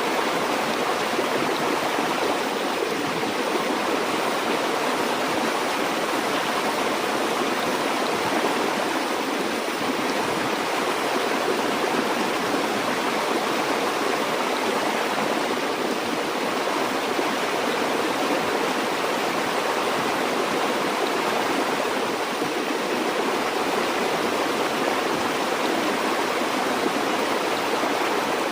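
A stream or small river flowing over stones: a steady rush and babble of water without a break.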